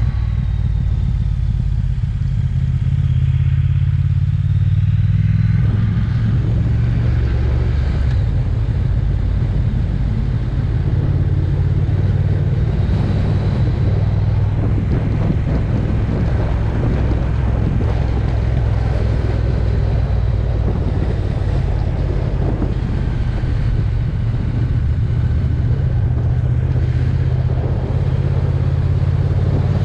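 Triumph Speed Twin's parallel-twin engine running steadily under way, a constant low drone, with rushing road and wind noise filling in from about six seconds in.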